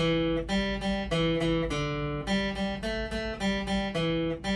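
Acoustic guitar being picked: a steady run of single notes, changing a few times a second, over lower bass notes.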